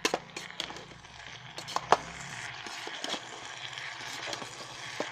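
A spoon stirring pasta in sauce inside an electric kettle, knocking and scraping against the kettle's sides in scattered clinks, the loudest about two seconds in, over a steady sizzle of the mixture cooking.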